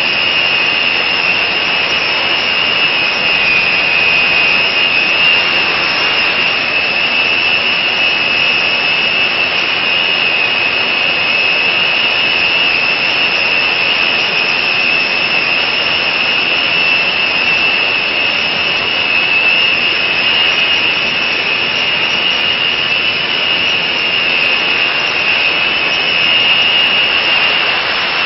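Fiat 640 tractor's diesel engine running steadily under load while driving a rotary tiller, its modified 'singing' exhaust giving a loud, steady high whistle over the engine noise.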